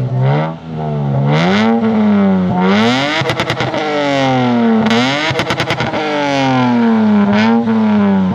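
Lexus IS200 engine with its silencer removed, revving up and down repeatedly through the open exhaust. There are two short spells of rapid stuttering near the top of the revs, about three and five seconds in.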